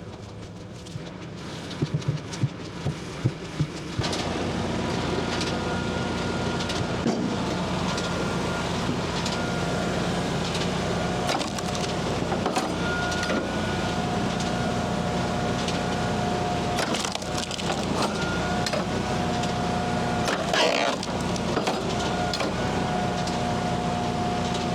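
Hydraulic firewood splitter working: a few sharp knocks of wood, then, about four seconds in, the machine comes up to a steady run with tones that shift as the hydraulics load and unload. Wood cracks and splinters as the rounds are split, and pieces knock as they fall.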